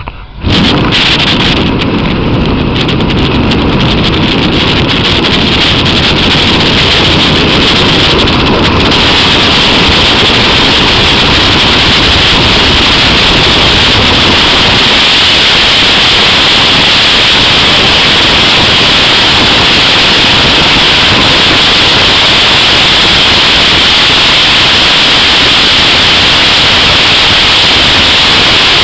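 Loud, steady rush of wind and road noise from a moving car, with wind blowing on the microphone; it starts abruptly about half a second in.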